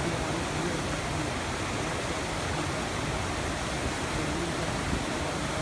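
Steady rush of falling water from a nearby waterfall, an even hiss with no breaks.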